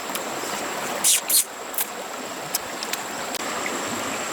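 Water running steadily, like a small stream, as an even rushing hiss. Two short, sharper splashing or scraping sounds come about a second in.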